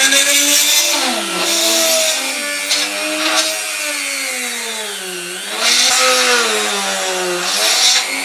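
Small power drill with a 2.5 mm bit drilling into the diecast metal rivet posts of a toy car base. The motor whine sags and recovers in pitch several times as the bit bites and frees, over a gritty scraping hiss.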